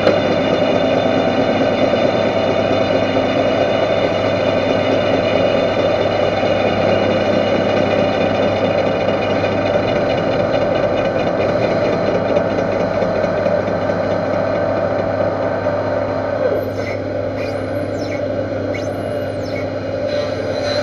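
Metal lathe running steadily, a dense machine drone with a steady hum. It eases off a little near the end, where a few faint high squeals come in.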